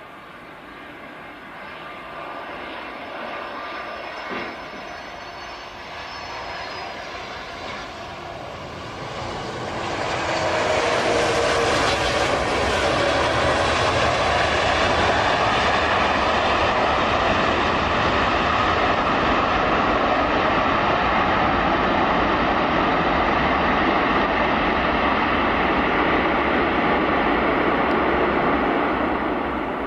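Jet engines of an Airbus A330-200 airliner, growing louder, then a loud steady engine roar from about ten seconds in that eases off near the end, with a few gliding whine tones as it nears.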